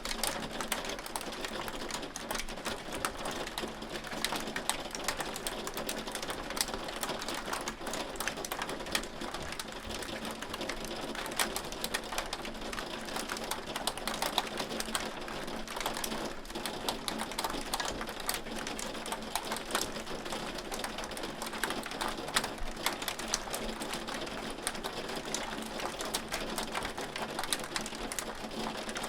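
Hail falling: a dense, steady patter of sharp ticks as hailstones strike a hard surface, over a continuous rain-like hiss.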